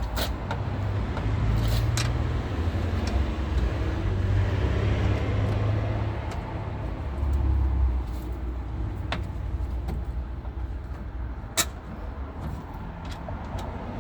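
A steady low rumble with a few sharp clicks, the loudest near the end.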